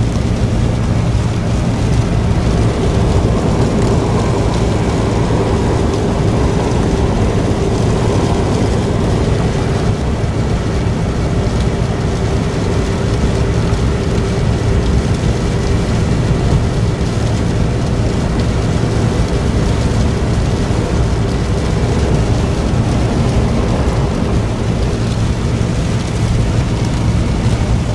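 Steady low rumble of a vehicle driving on a wet road in the rain, heard from inside the cabin, with a faint steady hum running through it.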